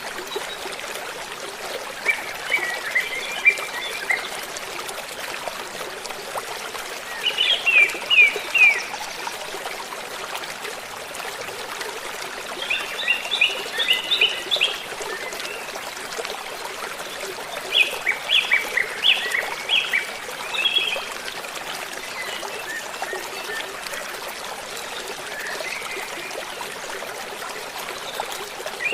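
Birds singing in short bursts of quick chirps, about every five seconds, over a steady rushing noise like running water.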